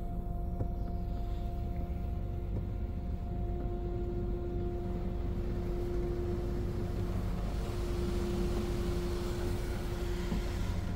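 Futura Millenium touch-free car wash running, heard from inside the car: a steady low rumble with a constant motor or pump whine, and a hiss of high-pressure water spray on the body that grows stronger about halfway through.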